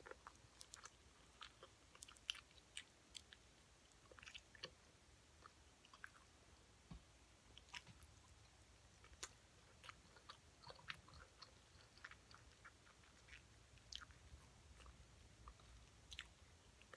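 Faint, close-up chewing and biting of fried whiting fish: a run of small sharp wet mouth clicks and smacks, several a second, throughout.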